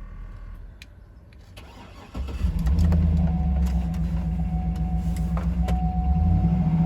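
2007 GMC Yukon Denali's 6.2-litre V8 starting: a few clicks, then it catches about two seconds in and settles into a steady idle, with a faint steady whine over it.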